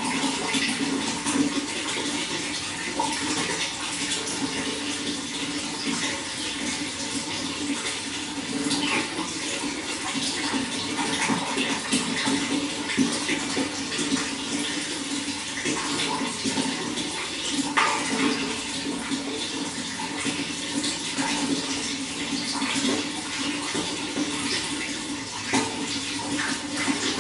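Running water flowing steadily, a continuous rush with many small splashes and gurgles.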